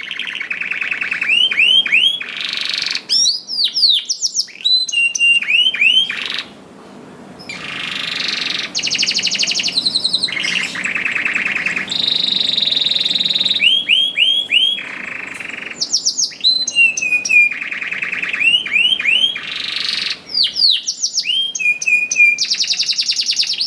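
Domestic canary singing a long, continuous song of fast trills and rapidly repeated swooping whistle notes, with a short lull about six seconds in.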